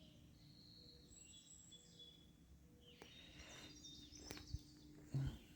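Quiet outdoor air with faint, distant bird chirps in the second half, a couple of sharp clicks, and a brief low thump near the end.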